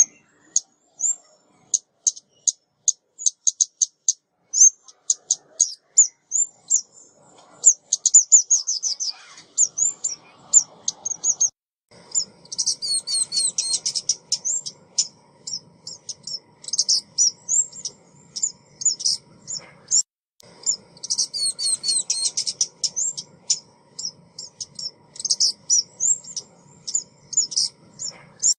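Rapid, high-pitched chirps and twittering of a female ốc mít (a small flowerpecker), a recorded decoy call of the kind used to lure the birds. A faint low hum sits underneath from about ten seconds in.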